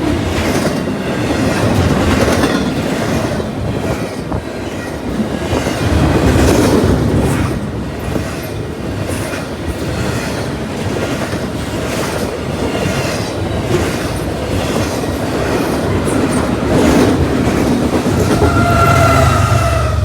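Train passing close by, its wheels clicking in a steady rhythm over the rail joints, with a faint steady tone coming in near the end.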